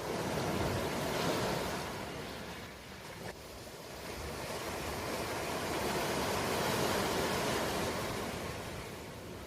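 Ocean surf: two waves wash in and draw back, about six seconds apart.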